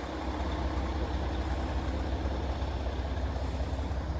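Diesel engine of a 2021 Mack Pinnacle day cab idling steadily with a low, even hum.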